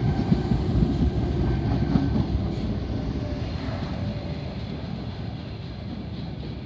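Tangara double-deck electric train running through the station without stopping and pulling away, its low wheel-on-rail rumble fading steadily as it recedes, with a short click about two and a half seconds in.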